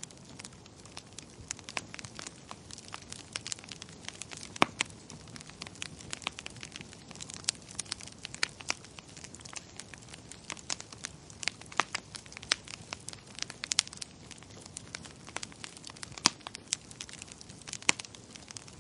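Fireplace fire crackling: irregular sharp pops and snaps, some louder than others, over a soft steady hiss.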